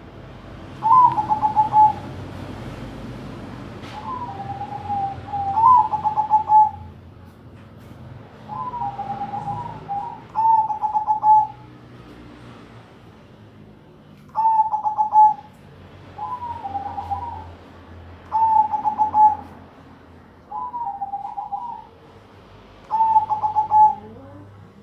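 Perkutut (zebra doves, Bangkok-type) cooing in a singing contest, two birds answering each other. Short, warbling coo phrases, each about a second long, repeat with short pauses throughout.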